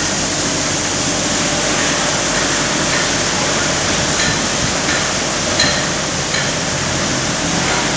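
Automatic car wash running: a steady rushing noise of water spray and machinery, with a few light knocks about halfway through.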